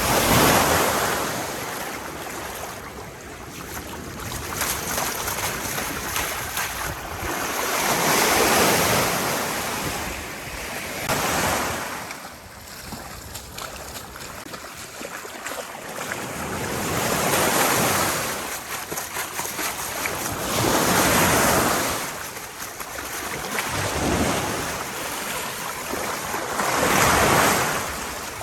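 Sea surf washing onto a beach, swelling and fading in repeated surges every few seconds, with wind buffeting the microphone.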